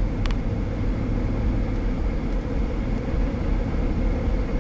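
Steady road and engine noise inside a moving car's cabin, with a single click just after the start.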